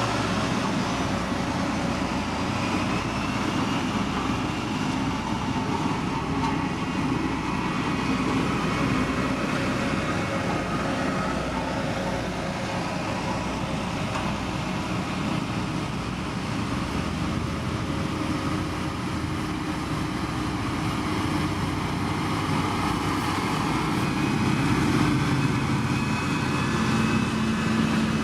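Heavy diesel road-construction machinery running steadily: a continuous engine drone whose pitch shifts slowly, getting a little louder near the end.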